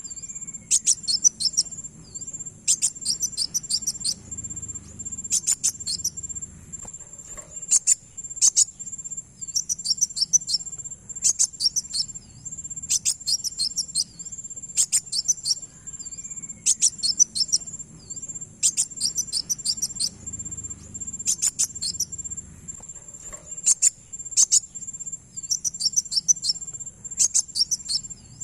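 Kolibri wulung sunbird (kowul) calling: short bursts of rapid, high, sharp chirps repeated every second or two, played as a lure call. A steady thin high whine like an insect runs underneath.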